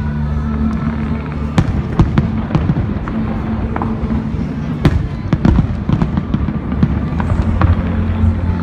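Fireworks going off in an irregular run of sharp bangs and crackles, several of them loud, over steady low music notes.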